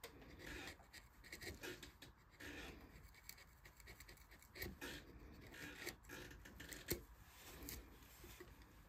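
Faint, irregular scratching strokes of a hand carving tool cutting into wood during relief carving, with one sharper tap about seven seconds in.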